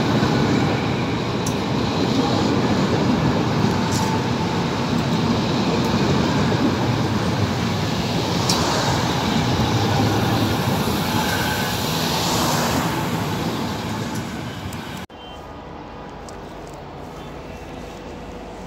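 Passenger railway coaches passing close by at speed: a steady rumble and rattle of wheels on the rails, with a few sharp clicks. About fifteen seconds in it cuts off abruptly to a much quieter steady background.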